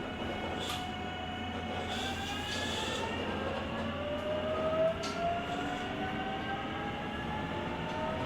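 JR Kyushu 883 series electric train's GTO-thyristor VVVF inverter and traction motors whining as the train accelerates, heard from inside the car on the deck. Several tones climb slowly in pitch over a steady running rumble, with a few brief clacks.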